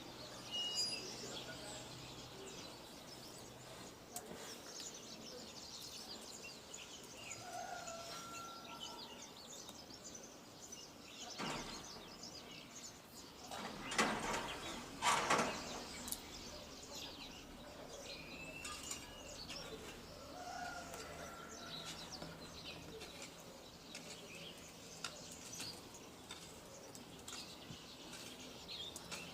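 Wild birds chirping and calling with short scattered chirps and whistles, over a faint outdoor background. Around the middle there are two louder noisy spells, one brief and one lasting about a second and a half.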